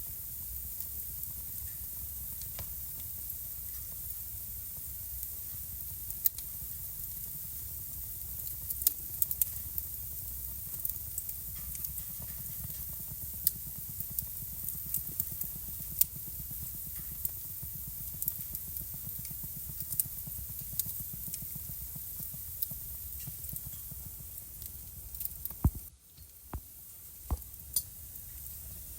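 Wood fire crackling in a home fireplace: sharp pops and snaps scattered over a steady hiss. About three seconds before the end, a loud pop comes and the background hiss briefly drops out.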